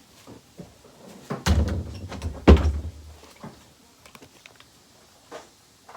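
Two heavy thuds about a second apart, each with a deep rumble, amid smaller knocks and clicks: something heavy being shifted and set down on a hard surface.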